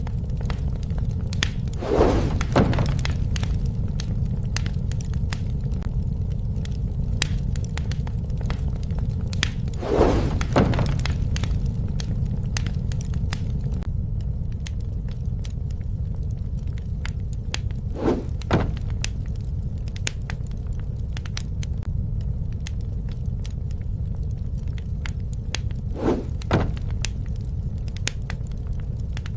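Wood fire burning with a steady low rumble of flames and constant small crackles and snaps, with a louder pop or crackle about every eight seconds.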